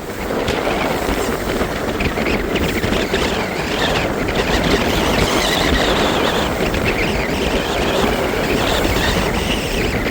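Wind buffeting the microphone and water rushing along the hull of a racing yacht under sail in a fresh breeze, a loud, steady rushing with a low rumble.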